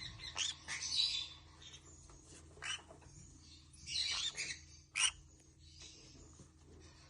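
Ringneck parrot giving short chirps and squawks in scattered bursts: a cluster in the first second, single calls near three and four seconds, and one sharp high call about five seconds in.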